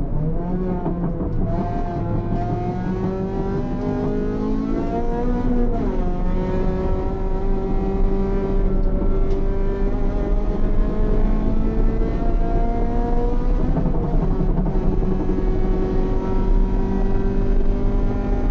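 Race car engine heard from inside the cockpit, pulling hard on track, with constant road and wind noise. The engine pitch climbs, falls sharply about six seconds in, dips again near fourteen seconds, then rises slowly.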